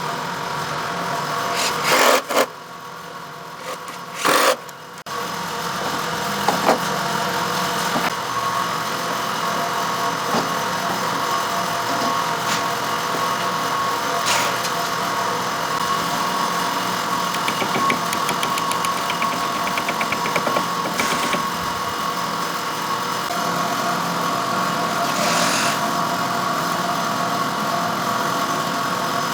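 A motor running steadily with a constant hum, with two short loud bursts of noise about two and four and a half seconds in.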